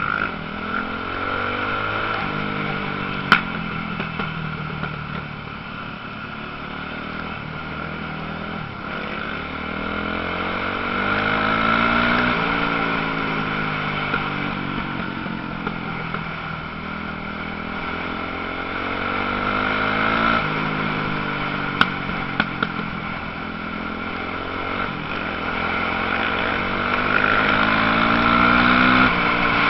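Several motocross bikes' engines revving up and down in turn as they race, the pitch rising and falling over and over. There are a couple of sharp clicks, one a few seconds in and another about two-thirds through.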